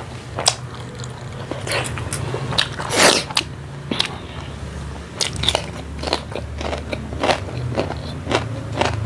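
Close-miked chewing and biting of food, with irregular crunches and wet mouth clicks; the loudest crunch comes about three seconds in.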